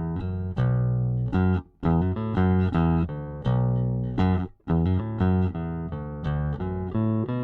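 Electric bass guitar played alone, plucking a quick line of notes that breaks off twice for a moment.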